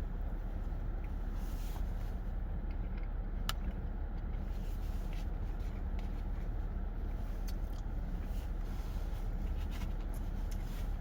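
Steady low rumble like a running vehicle, with a few faint clicks and light rustling or scraping over it; one sharper click about three and a half seconds in.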